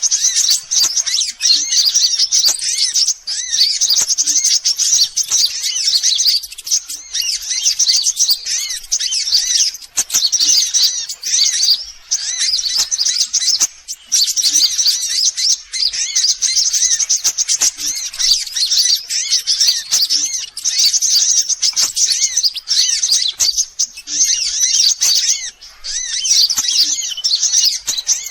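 Sunbirds chirping and trilling, a fast, dense run of high-pitched calls used as a bird lure, going almost without a break apart from a few short pauses.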